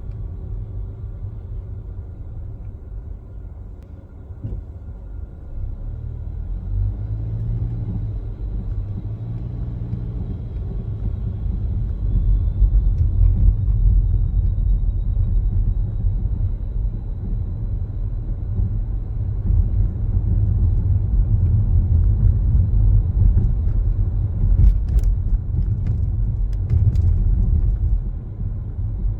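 A car driving on the road, a steady low rumble of tyres and engine that grows louder over the first dozen seconds as it picks up speed, then holds. A few faint clicks come near the end.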